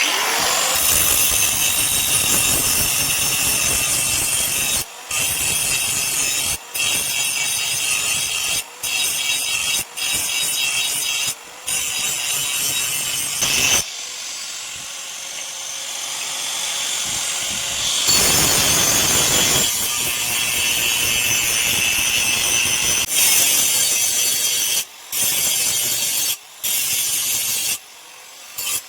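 A power tool cutting into steel plate with a loud, steady, hissing noise that breaks off abruptly several times and is softer for a few seconds midway.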